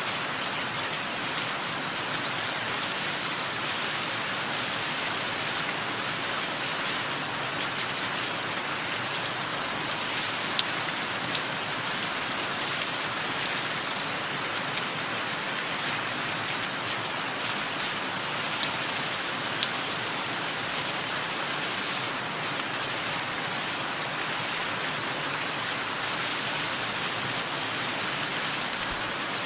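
Steady rain falling, with a small bird's high, quick chirps, usually two or three together, repeated every few seconds.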